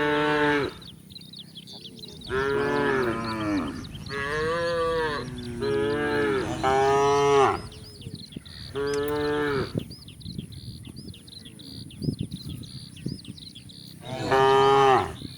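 Cattle mooing repeatedly: a run of loud, drawn-out moos, each about a second long, follows one after another for the first ten seconds, and one more comes near the end. A faint repeated chirping runs behind the later calls.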